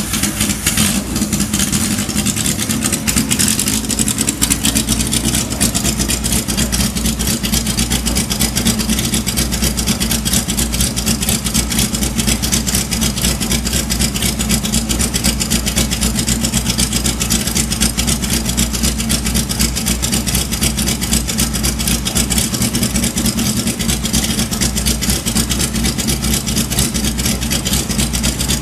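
Kawasaki Z1000ST's air-cooled inline-four engine idling steadily and evenly, having just caught on the electric starter; a brief louder moment right at the start, then a smooth, regular idle.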